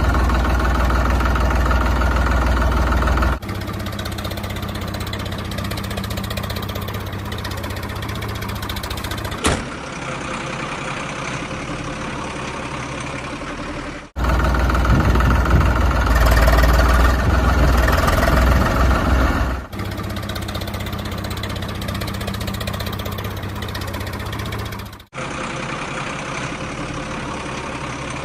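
Heavy vehicle diesel engines running and idling, heard in a run of short clips that switch abruptly every few seconds, some clips louder than others.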